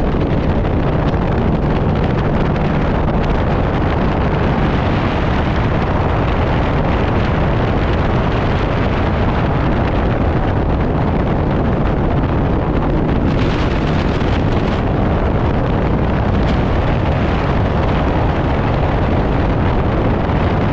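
Strong wind buffeting the microphone on a boat under way, with the boat's motor running steadily underneath; the sound cuts off suddenly.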